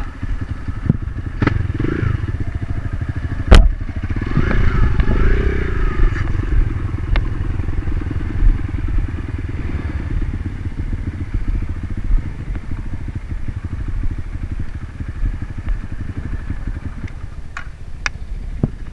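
Dirt bike engine running and revving on a trail climb, the pitch rising and falling a few seconds in. A single sharp knock comes about three and a half seconds in.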